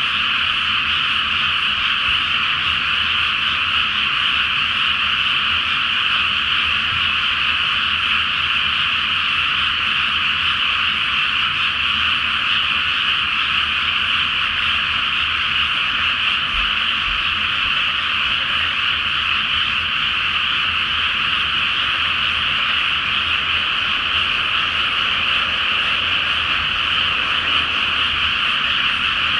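A dense chorus of many frogs calling from a flooded rice paddy, their croaks merging into one continuous, even din that never lets up.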